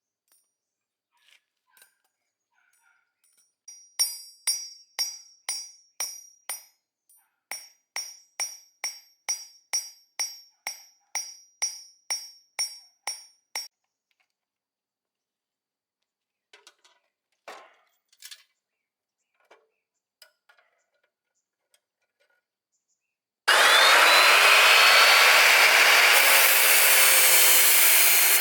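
A hammer striking a metal part about twenty times, roughly twice a second, each blow ringing. A few light knocks follow, then a power tool starts suddenly near the end and runs loudly with a whine.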